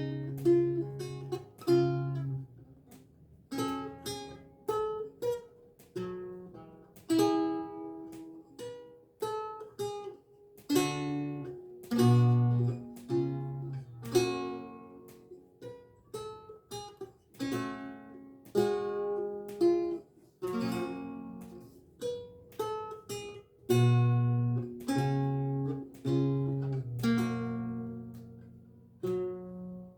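Renaissance lute played solo: a melody picked out in single notes and chords over low bass notes, each note plucked and left to die away.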